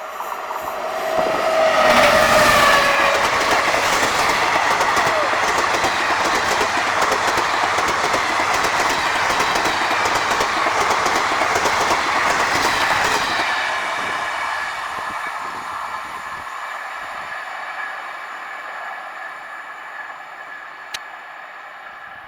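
Passenger train passing at speed: a falling-pitch whine as the locomotive goes by about two seconds in, then a steady rapid clickety-clack of wheels over rail joints for about ten seconds, which fades away with a faint high tone lingering near the end.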